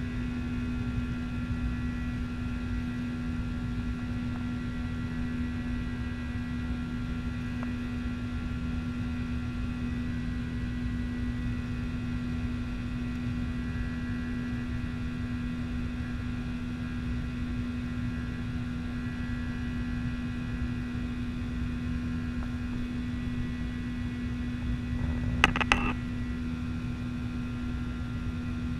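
Steady cabin drone of a Boeing 737-900 airliner: an even hum over a low rumble that neither rises nor falls. Two short sharp clicks come near the end.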